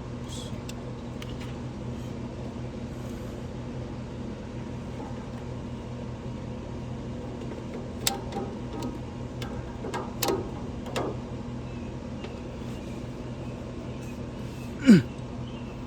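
Steady low machine hum, with a few light clicks and taps in the middle. About fifteen seconds in comes a short, loud sound that slides sharply down in pitch.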